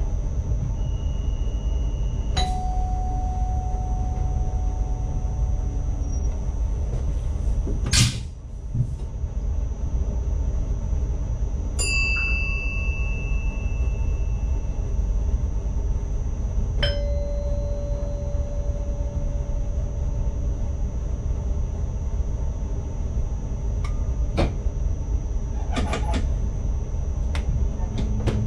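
Inside the driver's cab of an ICMm (Koploper) intercity train: a steady low rumble with a constant high whine, broken by a few short electronic dings and clicks, with a sharp knock about 8 seconds in.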